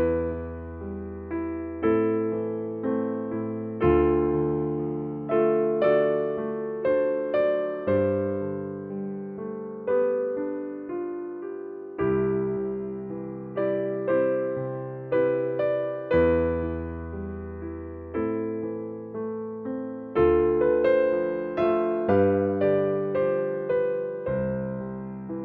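Soft solo piano music: slow chords and single notes struck about once or twice a second, each ringing out and fading.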